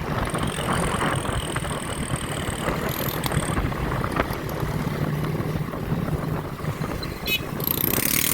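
Motor vehicle engine running over steady road and wind rumble, its engine note standing out for a couple of seconds around the middle.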